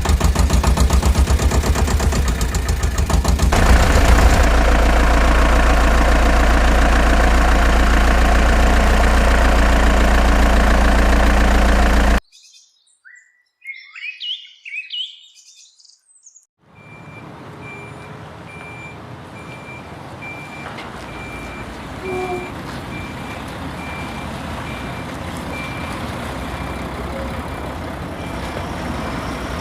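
Heavy diesel vehicle engine running loudly, cutting off abruptly a little under halfway through. A few brief bird chirps follow in near silence, then a truck's reversing alarm beeps steadily about once a second over a quieter engine that slowly grows louder.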